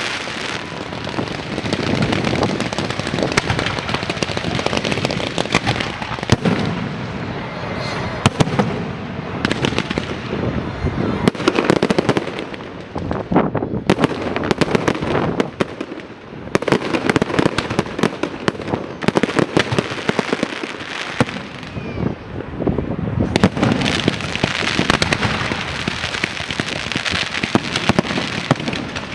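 Fireworks going off in a rapid, continuous barrage of bangs and crackles, easing briefly a few times before building again.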